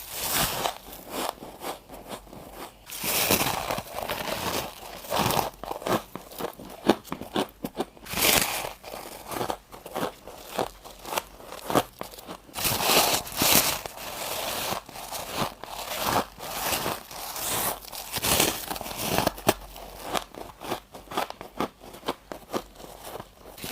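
Close-miked biting and crunching of chunks of humidifier freezer frost: repeated crisp, crackly crunches in quick irregular bursts.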